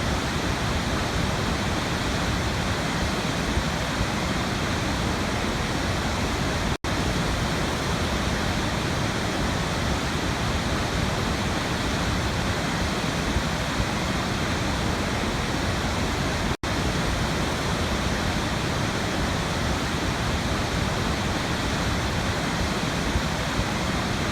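Waterfall: a steady, unbroken rush of falling water, cut twice by a momentary dropout to silence, about seven seconds in and again about ten seconds later.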